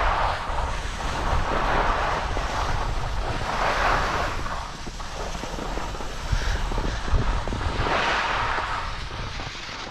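Skis sliding and scraping over packed snow, the hiss swelling and fading several times as they turn, with wind rumbling on the microphone.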